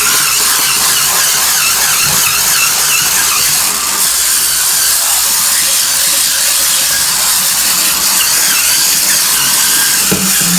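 BulbHead Hurricane Spin Scrubber, a cordless 8.5-volt spin brush, running with its dome brush head spinning against a sink: a steady, high-pitched whir of the small motor with the hiss of bristles scrubbing.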